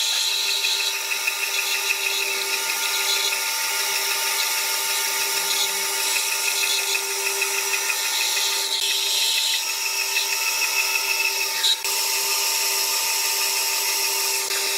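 Electric power tool motor running steadily at high speed on wood, giving a constant high whine with a brief dip near the end.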